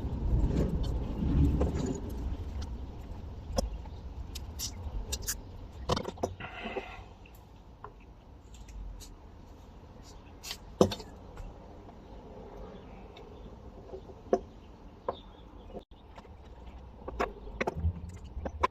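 Small objects being handled and set down by hand: scattered light clicks and knocks, with a low rumble in the first few seconds and a short scraping rustle about six seconds in.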